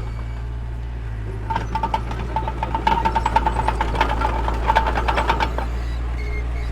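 Mini bulldozer's diesel engine running steadily. From about a second and a half in until near the end there is a run of rapid metallic clanking with a squeal.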